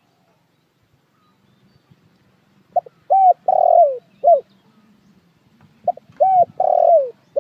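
Spotted dove cooing: two phrases about three seconds apart, each a short note, a rising-and-falling coo, a longer coo that slides down at its end, and a short closing coo.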